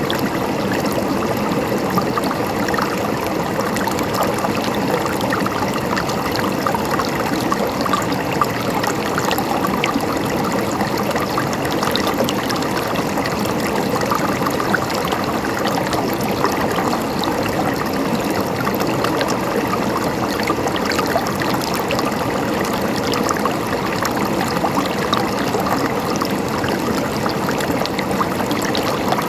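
Mountain stream of water flowing and gurgling steadily over rocks.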